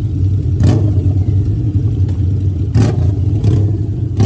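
Harley-Davidson motorcycle engine running with a steady low rumble, with three short hissing bursts about half a second, nearly three, and three and a half seconds in.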